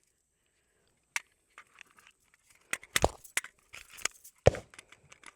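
Smith & Wesson .22 Magnum pistol being handled through a malfunction: a run of small metallic clicks and clacks, with two louder sharp cracks, one about three seconds in and the loudest about four and a half seconds in.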